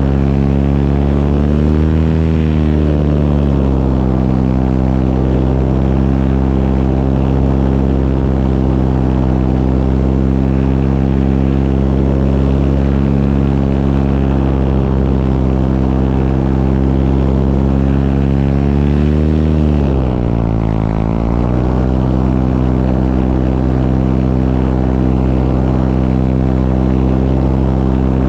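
Propeller engine of a small powered aircraft running steadily in flight, with air rushing past. The engine pitch swells briefly about two seconds in, and again near twenty seconds, then drops for a moment before settling back to a steady drone.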